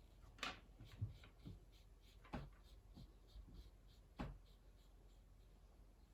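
Faint sounds of a watercolour brush working paint on paper, with a few light taps and a run of soft ticks in between.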